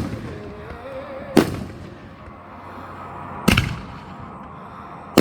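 Fireworks going off in a backyard show: three sharp bangs about two seconds apart, each with a short echoing tail.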